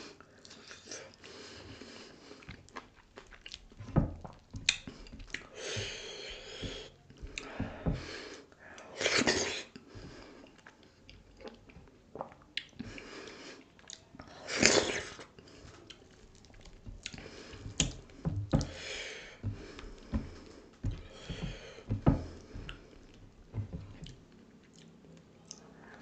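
Wet chewing and mouth smacking of a person eating dhido, a stiff flour porridge, with sisnu, a stinging-nettle curry. There are irregular smacks and clicks, with a few louder, longer mouth sounds spread through.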